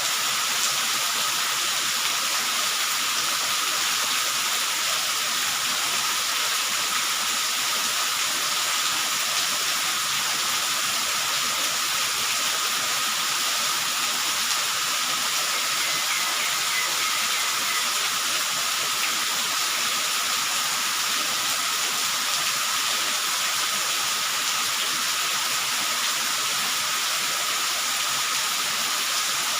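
Steady rain falling: a constant, even hiss.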